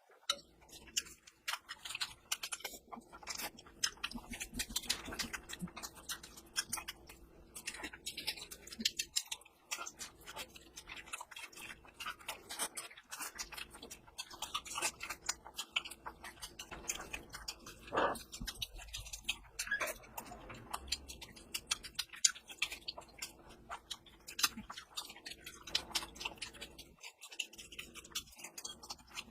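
A person chewing and smacking while eating curry with rice: a constant run of irregular wet clicks and mouth sounds.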